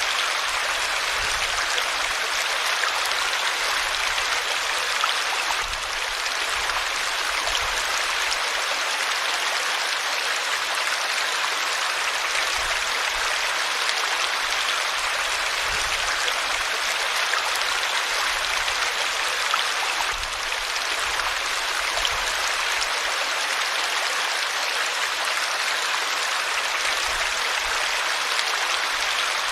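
River water flowing over rocks, a steady rushing that does not change.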